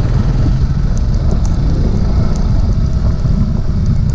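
Steady low rumble of a motorcycle on the move, with wind buffeting the microphone.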